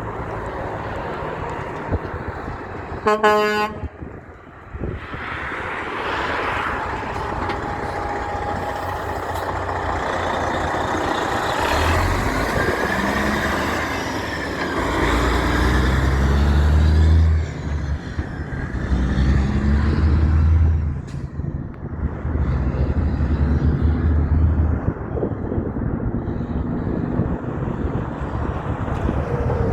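A short horn toot about three seconds in, then a heavy truck's diesel engine going by, loud and low, with its engine note stepping up and down through the middle and dropping away near the end.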